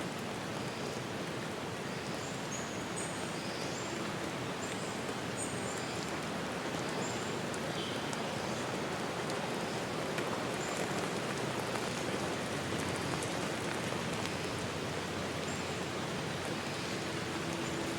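Steady rain falling, with short high bird chirps through the first half and a low steady hum coming in near the end.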